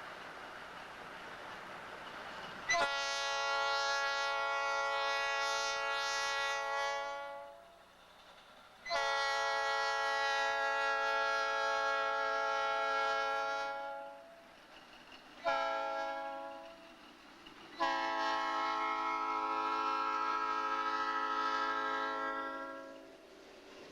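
Locomotive air horn sounding four blasts, long, long, short, long: the standard signal for a train approaching a road grade crossing.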